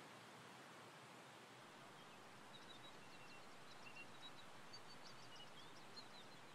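Faint outdoor ambience: a steady low hiss with small birds chirping, a run of short high chirps and brief whistled notes starting about two seconds in.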